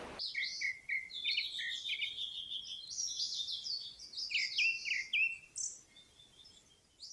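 Small birds singing: a quick run of short chirps and down-slurred whistled notes, several overlapping, rising and falling in loudness and thinning out near the end.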